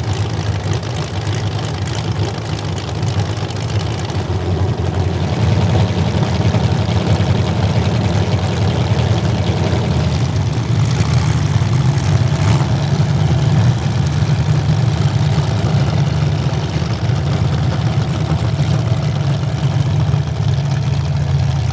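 Demolition derby car engines running in a steady low rumble, getting louder about five seconds in.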